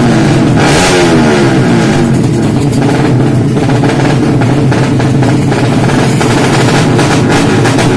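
Yamaha Jupiter 155 motorcycle engine at high revs, its pitch climbing about a second in, with a rapid rattle.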